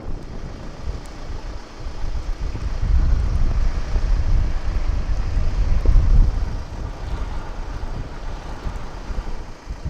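Strong wind buffeting the microphone in gusts, a rushing noise with heavy low rumble that swells loudest in the middle and eases off toward the end.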